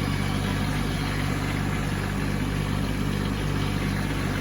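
Kubota B2601 compact tractor's three-cylinder diesel engine running steadily at an even speed.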